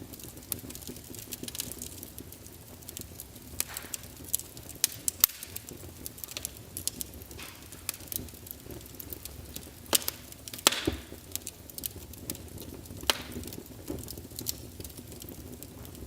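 Wood fire crackling in a fireplace: irregular sharp pops and snaps over a low steady hiss and rumble of the flames, with a few louder snaps about five, ten and thirteen seconds in.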